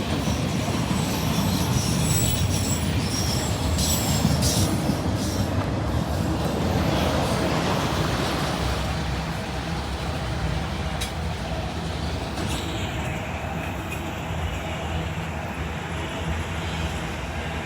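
Freight train rolling past with the steady rumble of steel wheels on rail. Thin high wheel squeal sounds over the first several seconds, and a few clicks come from the wheels crossing rail joints. The sound eases off slightly in the second half.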